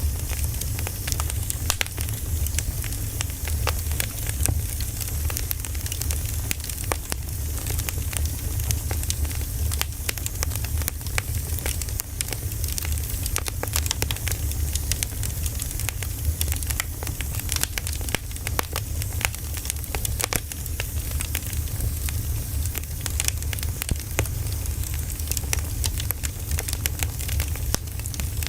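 Wood fire burning, with frequent irregular sharp crackles and pops of the burning logs over a steady low rumble.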